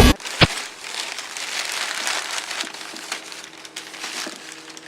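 Cardboard box and packing material being handled during an unboxing: scattered crinkling and rustling, with a sharp click about half a second in.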